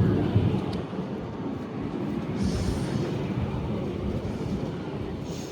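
Roslagsbanan narrow-gauge electric train going past with a low rumble of wheels and running gear. The rumble is loudest at the start and fades toward the end, with a brief high hiss about two and a half seconds in.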